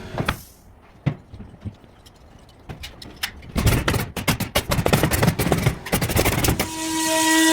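Carpentry tool work: runs of fast, irregular knocks and clicks with a quieter gap between them. Near the end a power tool's motor starts and runs with a steady whine.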